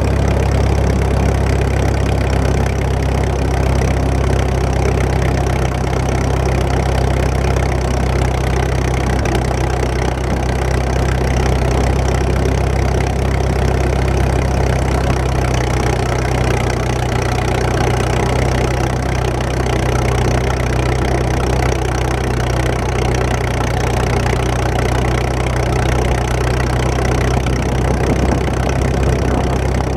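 Antique tractor engine running steadily at low speed, heard close up, its deep exhaust note unchanging throughout.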